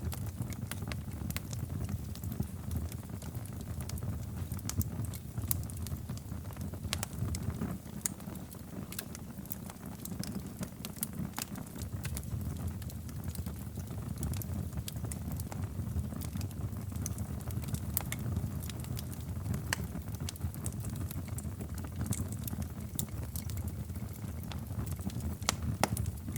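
Wood fire crackling in a fireplace: scattered sharp pops and ticks, several a second at irregular intervals, over a steady low rumble of the burning fire.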